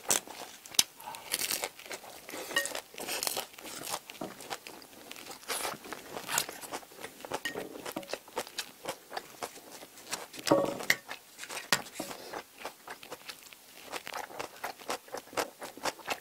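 Close-up crunchy chewing and biting of crusty toasted baguette, a dense run of sharp crackles, with a louder crunch about ten seconds in.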